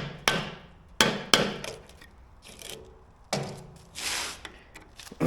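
A few sharp metal knocks and a scrape about four seconds in, as a screwdriver is worked under a worn bushing in a skid steer's quick-attach carriage to collapse it for removal.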